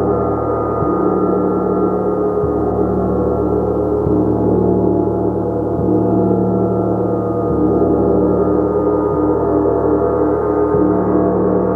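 Gong struck softly and steadily, about once every 1.7 seconds, each low stroke feeding a continuous, dense wash of ringing overtones that never dies away.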